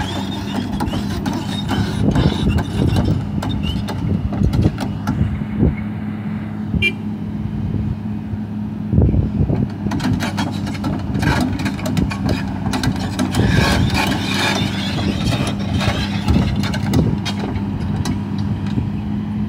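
Diesel engine of a Sany SR150C rotary drilling rig running steadily, with irregular clanks and rattles from its crawler tracks and machinery as it travels.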